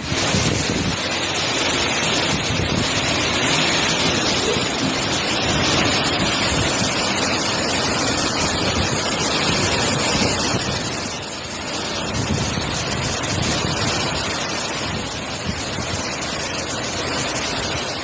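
Hurricane wind: a dense, steady rush of storm noise with gusts buffeting the microphone, easing briefly about two-thirds of the way through.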